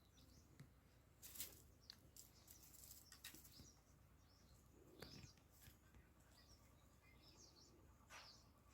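Near silence, broken by faint scattered clicks and scratches and a few faint high chirps.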